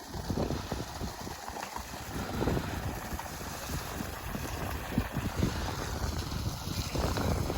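Wind buffeting the microphone outdoors in winter cold, an uneven gusty low rumble.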